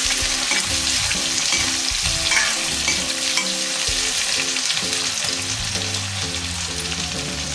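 Sliced onions, garlic, ginger and whole spices sizzling steadily in hot oil in an aluminium kadhai, with a steel spatula stirring and scraping them as the tadka browns.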